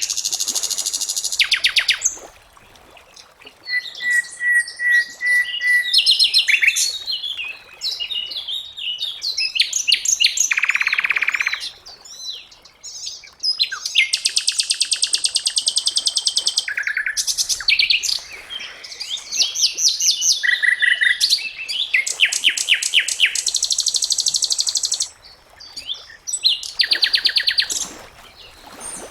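Sikatan londo flycatcher singing a varied song of rapid high trills and fast chattering phrases, with short pauses between them. It includes a run of evenly repeated clear notes.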